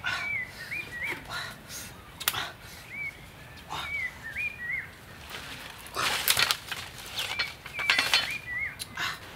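A bird calling in short whistled chirps that rise and then dip, in groups of two or three every few seconds. Short bursts of rustling handling noise come between them, the loudest about six seconds in.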